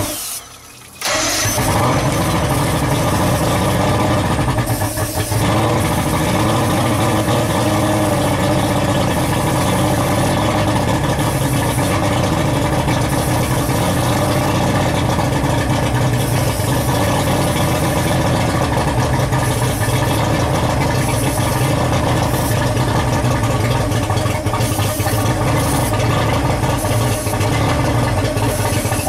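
Johnson 150 hp two-stroke V6 outboard motor catching about a second in and then running steadily.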